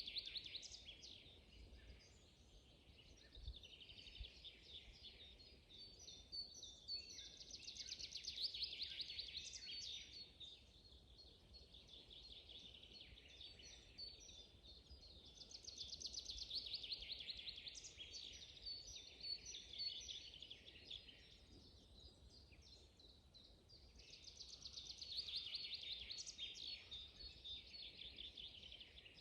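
Songbirds singing in a spring forest: one bird repeats a fast trilled phrase lasting two or three seconds about every eight seconds, with scattered short chirps from other birds in between.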